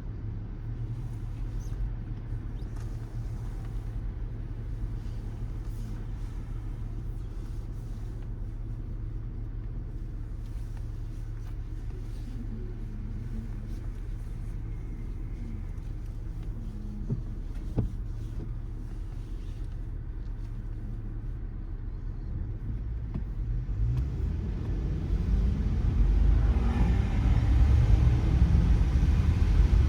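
Car driving on a wet road: a steady low rumble of engine and tyres, with one sharp click about 18 seconds in. From about 24 seconds in it grows louder, with more tyre hiss and a rising engine pitch.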